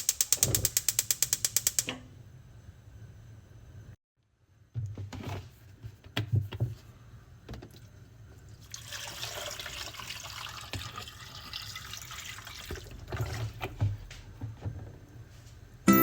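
Kitchen work sounds. About two seconds of rapid, evenly spaced clicking at the start are followed by scattered knocks and then several seconds of running or pouring water.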